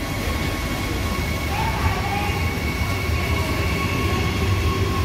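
A train running, a steady rumble with a faint, even whine above it.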